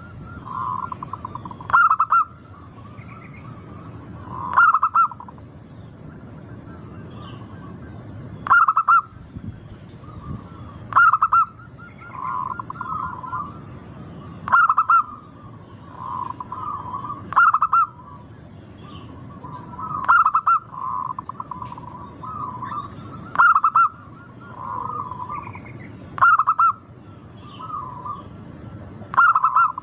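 Local perkutut (zebra dove) song: a loud rolling coo repeated about every three seconds, with softer cooing between, over a steady low background hiss.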